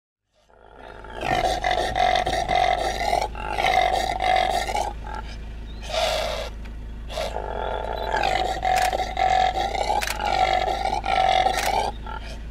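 Impala ram calling: a run of loud, drawn-out calls, each about a second long, with short breaks between them. The calls start about half a second in.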